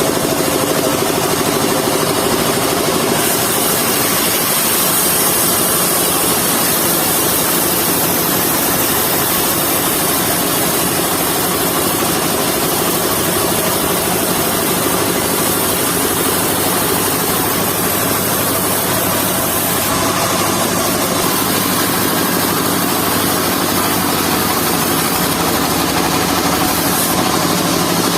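Engine-driven mobile circular sawmill running steadily while sawing logs, with a high hiss that strengthens and eases over stretches of several seconds as the blade works through the wood.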